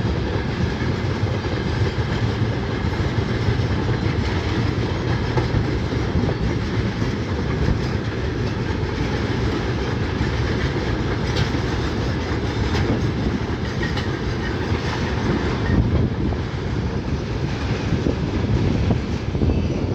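Train wagons rolling along the rails with a steady rumble and wheel clatter, and a few sharp clicks about halfway through.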